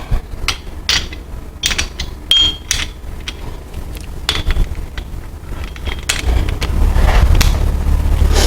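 Hand ratchet clicking in short, uneven runs as the main bearing cap bolts of a Chevy 350 engine are run down snug before torquing. A low rumble comes in near the end.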